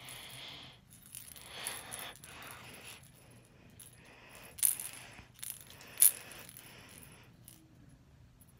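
A kitten playing with a toy: soft rustling, then a few sharp clicks about four and a half to six seconds in.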